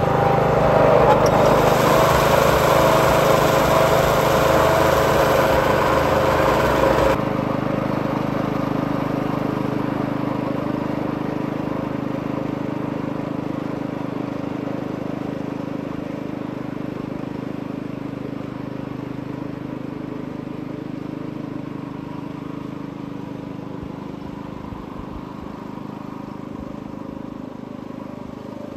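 Reel lawn mower running with a steady engine hum. A loud rushing noise over the hum stops suddenly about seven seconds in, and the hum then fades slowly.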